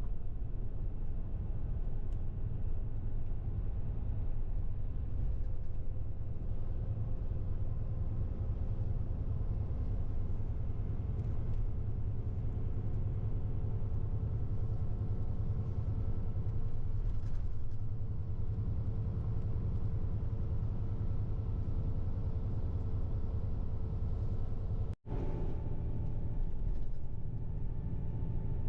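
Steady engine and road rumble inside a moving tour bus, heavy in the low end, with faint steady engine tones. The sound breaks off for an instant about 25 seconds in and carries on with a slightly changed tone.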